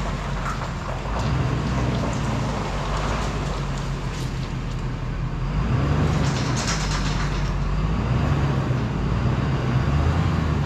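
Pickup truck engine running steadily while towing a heavy load, with road and rattle noise. It gets a little louder about six seconds in.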